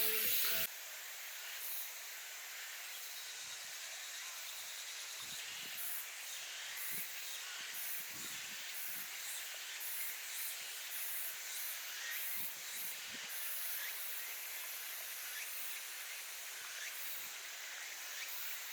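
Steady outdoor ambient hiss, with faint low bumps here and there.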